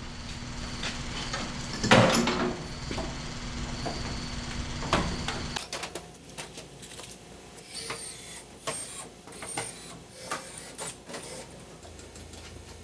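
GM 3.0-litre four-cylinder engine idling steadily at its newly set timing, with one loud knock about two seconds in. The idle cuts off abruptly about halfway through, leaving quieter scattered clinks and knocks.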